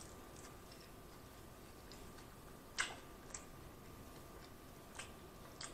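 Faint mouth sounds of chewing a mouthful of burger close to the microphone: a few separate wet clicks and smacks, the sharpest nearly three seconds in.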